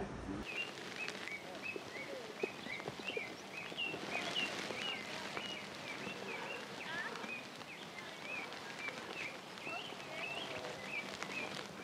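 Outdoor ambience with birds chirping: many short, high notes repeating several times a second over a steady background hiss, with a few faint clicks.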